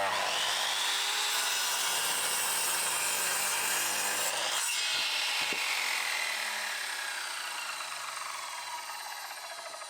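Electric power saw cutting through wood, starting abruptly. The motor's whine sinks slowly in pitch as it cuts, and near the end it begins to wind down.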